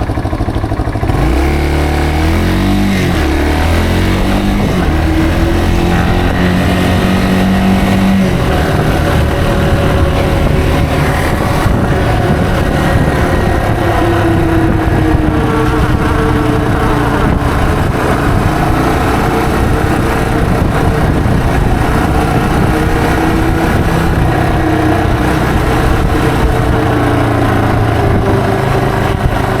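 Yamaha TW225's single-cylinder four-stroke engine pulls away from idle about a second in, rising in pitch through the first gears, then runs steadily at cruising speed with its note drifting gently up and down.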